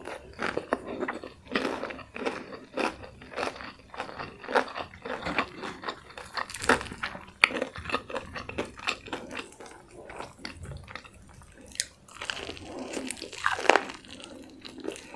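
Close-miked chewing and biting of crispy fried chicken, with many sharp, irregular crunches.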